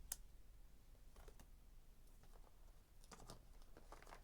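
Near silence with a few faint clicks and light rustles: one sharp click at the start, then soft clusters of small clicks about a second in and again near the end.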